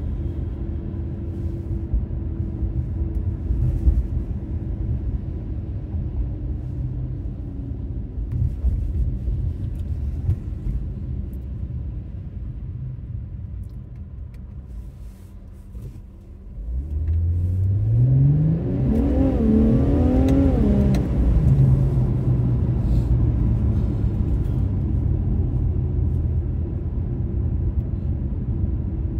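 2018 Infiniti Q50 Red Sport 400's 3.0-litre twin-turbo V6 heard from inside the cabin with road noise: a steady low drone while cruising, easing off, then about seventeen seconds in a hard acceleration, the engine note climbing in pitch with a few quick dips as it upshifts, before settling back into a steady, louder cruise.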